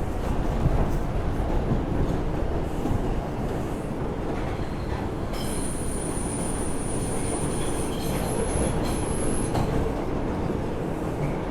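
R142 subway car running between stations, heard from inside: a steady rumble of wheels on rail, with a high-pitched wheel squeal setting in about five seconds in and lasting about four seconds.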